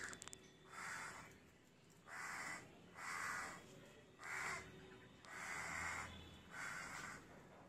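Harsh bird calls, six in a row, each about half a second long and spaced roughly a second apart.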